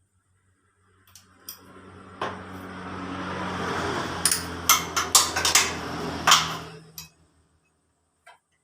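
A small motor-driven tool runs for about six seconds with a steady hum that builds up, with a handful of sharp metallic clinks and knocks over its second half, as parts are worked loose during a scooter engine teardown.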